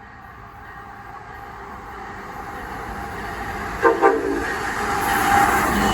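An approaching train growing steadily louder, with two short horn toots about four seconds in, then the rising rumble and rush of the train drawing near.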